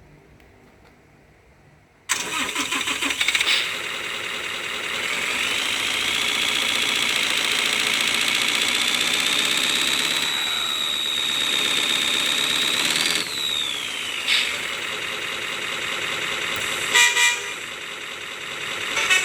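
RC truck engine-sound module playing a simulated truck engine: it cranks and starts about two seconds in, then runs with a high whine that rises and falls. Short horn toots come near the end.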